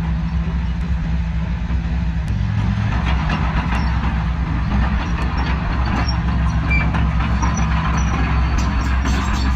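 Heavy earthmoving machine's diesel engine running steadily under load. Its low hum shifts about two seconds in, and light clanking and rattling run on from about three seconds in.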